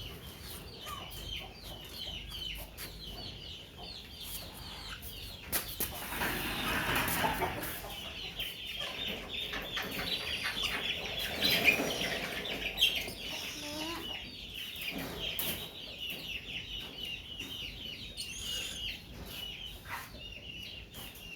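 Young birds cheeping: rapid, repeated short high calls throughout, with a louder noisy stretch about six seconds in.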